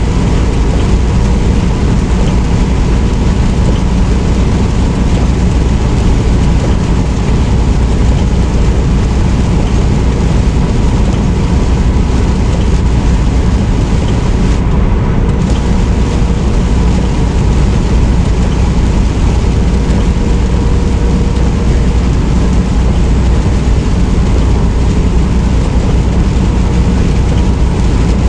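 Semi truck on the move, heard from inside the cab: a steady, loud low rumble of engine and road noise with no breaks.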